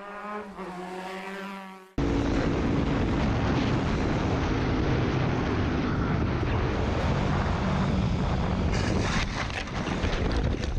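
A short rising pitched tone swells for about two seconds and cuts off. Then a motorcycle runs at speed under a loud, even rush of wind on the microphone, with a run of sharp knocks and clatter near the end.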